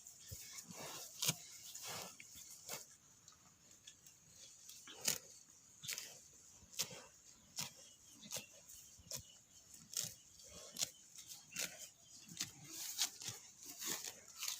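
A cow grazing close up, tearing off mouthfuls of grass and chewing, in a series of crisp ripping crunches about once a second, with a quieter pause a few seconds in.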